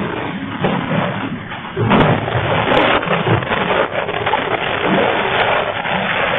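Loud rumbling and rattling of a truck in motion, growing louder about two seconds in.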